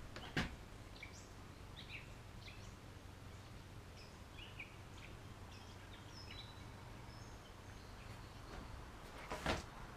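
Faint, scattered chirps and short calls of small birds over a steady low background hum. A sharp knock comes just after the start and another near the end.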